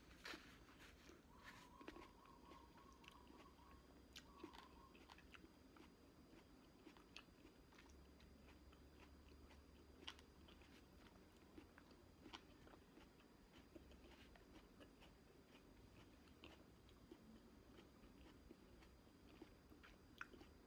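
Faint chewing and biting of fresh fruit, grapes and cut fruit, with scattered soft wet mouth clicks.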